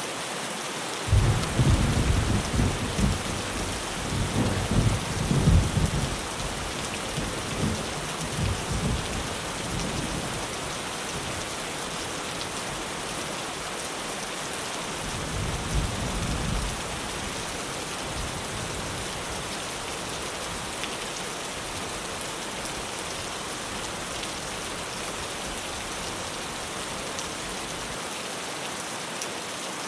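Steady rain falling on a tin roof. A roll of thunder breaks in about a second in and rumbles for several seconds before dying away, and a second, weaker rumble comes around the middle.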